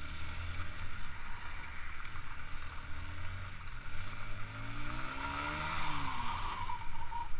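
Motor vehicle engine running, then speeding up with a rising pitch about four seconds in.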